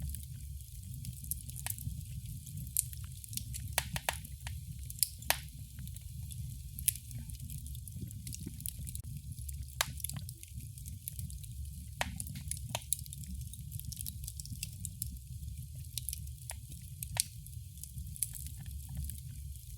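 Fire crackling in a fireplace: irregular sharp pops and snaps, a few every second, over a steady low rumble.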